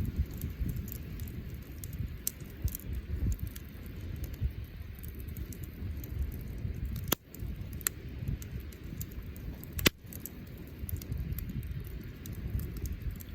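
Wood bonfire burning, crackling with scattered small ticks over a low rumble, with two sharp pops, one about seven seconds in and another near ten seconds.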